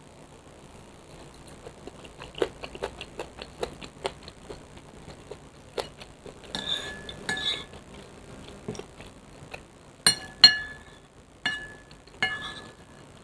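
Eating utensils clinking and scraping against a bowl of soupy noodles: a run of small taps, then several sharp ringing clinks, the loudest about ten seconds in.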